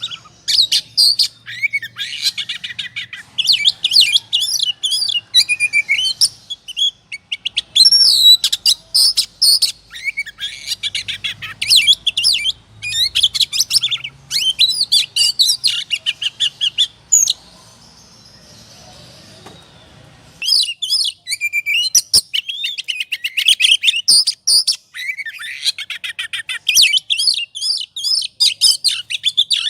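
Oriental magpie-robin (kacer) singing in the loud, aggressive 'ngobra' style: rapid strings of varied high whistles and trills, with a pause of about three seconds a little past the middle before the song resumes.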